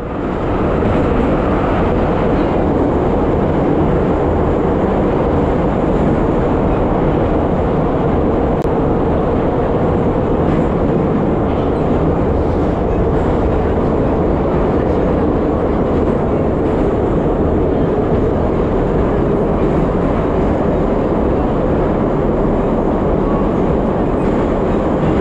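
EZh3 metro train running: a steady, even rumble and hiss of a moving subway train.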